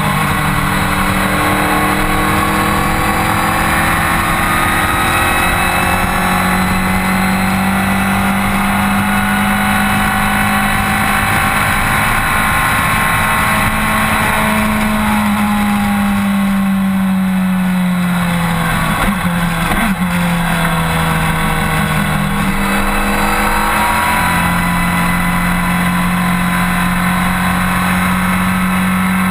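BMW K1200R's inline-four engine running at cruising speed, its pitch mostly steady, under a rush of wind over the microphone. About two-thirds of the way through the engine note falls away, then rises again as the throttle comes back on.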